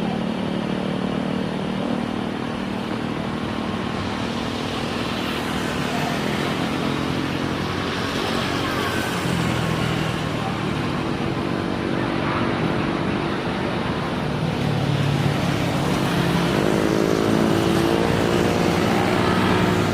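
Steady engine noise with a hum that wavers in pitch and swells a little louder and higher near the end.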